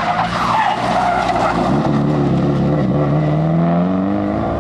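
Rally car engine at high revs, its pitch climbing steadily through the second half as the car accelerates.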